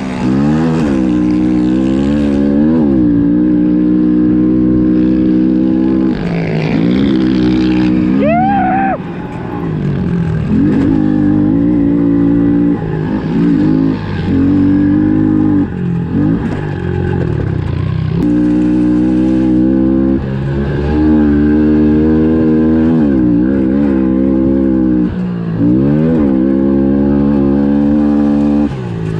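Honda CRF110F pit bike's single-cylinder four-stroke engine racing hard, revving up and dropping back again and again through gear changes and corners, with a sharp rev spike about eight seconds in.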